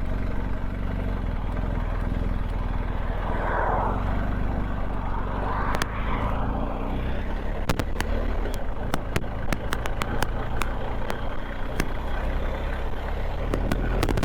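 BMW R1250GS Adventure's boxer-twin engine running steadily under way, with road and wind noise, heard from a helmet-mounted camera. From about six seconds in, frequent sharp clicks cut through.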